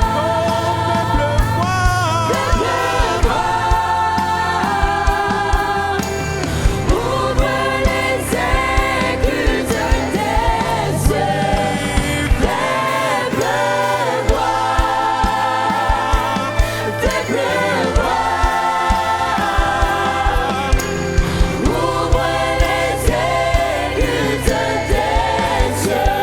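Choir singing a gospel worship song with a band, over a steady drum beat.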